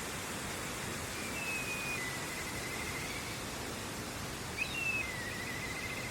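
Steady rush of river water, with a bird singing twice over it. Each phrase is a short whistled note followed by a slightly lower rapid trill, about a second in and again near the end.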